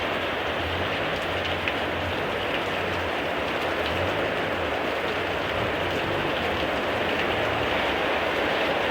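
Heavy rain pouring down in a thunderstorm downpour: a steady, even rush of falling rain.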